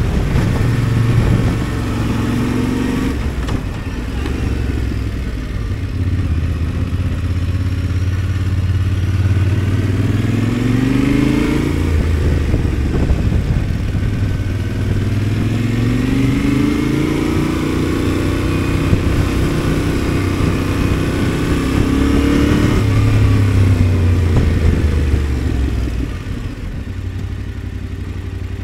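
Yamaha Ténéré 700's parallel-twin engine running while riding, its pitch rising and falling several times as it pulls out of bends. Near the end the engine drops to a lower, quieter sound as the bike slows.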